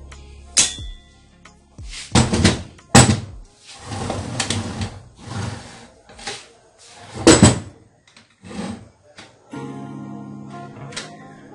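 Background music with several loud knocks and scraping, rattling bursts from metal parts of a sewing machine being handled and taken apart.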